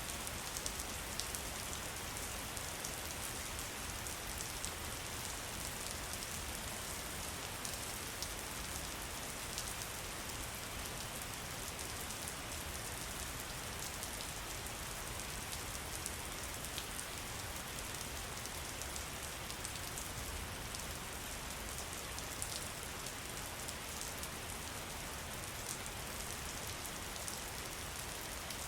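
Steady rain: an even hiss of falling water with many small, sharp drop ticks scattered throughout.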